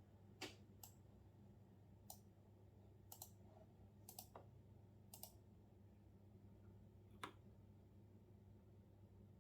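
Scattered single clicks of computer work, about eight spread unevenly over a few seconds, rather than a run of typing. A faint steady low hum sits underneath.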